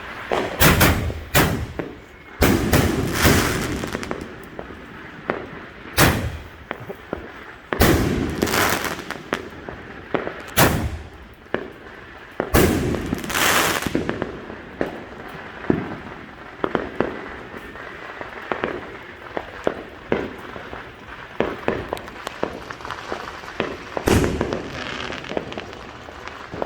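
Consumer fireworks going off: a string of sharp booms, each followed by a trailing crackle, most of them in the first half and one more near the end, with many small scattered pops in between.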